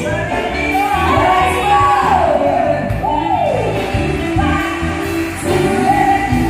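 Live band playing a song with a singer, the voice sliding down through long held notes about halfway through.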